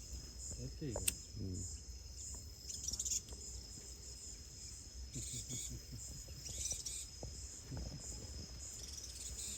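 Insects chirring in a steady, high-pitched pulsing chorus, with faint low voices murmuring and a sharp click about a second in.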